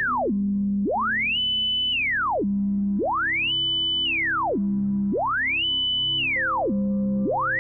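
Pure synthesized tone whose pitch traces a point riding around a drawn shape: it holds high, glides down in a curve, holds low briefly, and glides back up, repeating about every two seconds. Quiet background music runs underneath.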